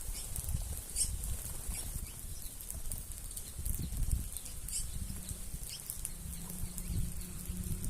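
A flock of birds feeding on the ground, with scattered short, high chirps and wing flutters over an irregular low rumble.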